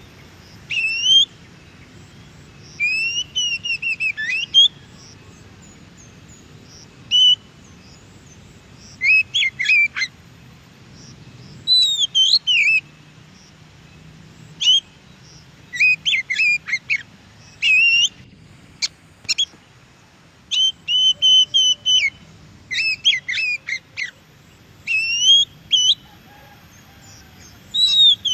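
Oriental magpie-robin singing: short phrases of clear, gliding whistles and quick chattering notes, repeated every second or two with brief pauses between them. A faint low background rumble runs underneath.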